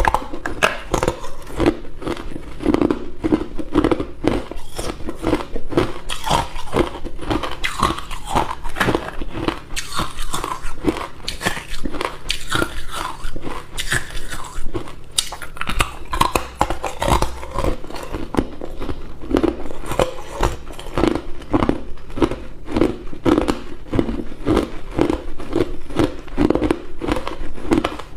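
Close-miked crunching and chewing of hard ice cubes in the mouth: rapid, irregular crunches as the ice is bitten and ground between the teeth.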